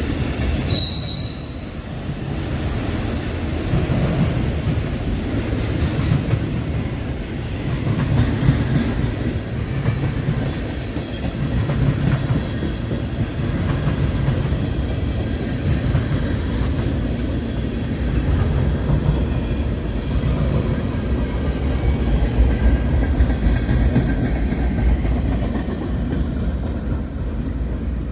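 Mixed freight train rolling past, its cars making a steady, loud rumble with rapid clicking from the wheels over the rail joints. A brief high wheel squeal comes about a second in.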